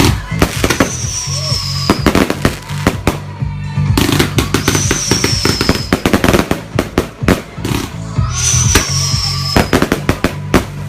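Fireworks going off in quick, irregular bangs and crackles, over music with a heavy, repeating bass line.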